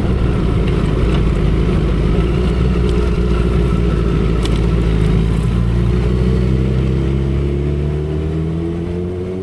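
2012 Kawasaki ZX-10R's inline-four engine running at speed under heavy wind noise. Near the end the engine note climbs in pitch while the wind noise eases off.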